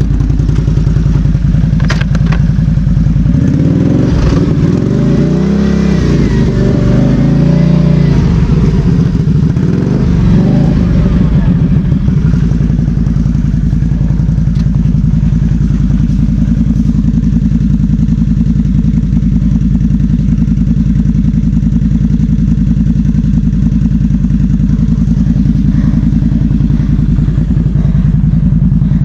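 Quad bike (ATV) engine running. Its revs rise and fall for several seconds, starting a few seconds in, and then it settles to a steady run.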